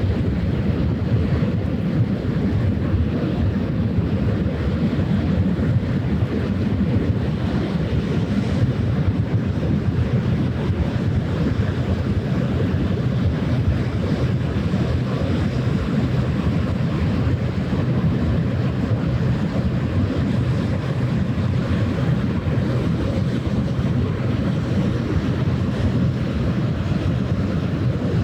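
Steady wind buffeting the microphone over moving estuary water, with a low even drone underneath.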